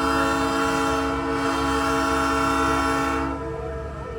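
Nathan Airchime P3 train horn mounted on a big rig, sounding one long steady chord that cuts off about three seconds in, leaving a low rumble underneath.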